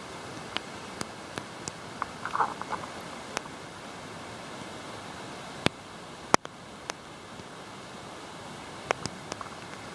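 Rain: a steady hiss with scattered sharp ticks of single drops striking close by, one much louder tick a little past halfway. A brief squeak a couple of seconds in.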